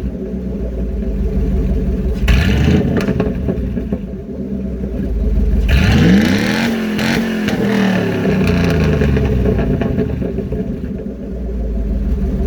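V8 engine with a loud aftermarket exhaust idling, then revved twice: a short blip about two seconds in and a longer rev in the middle that climbs and drops back to idle.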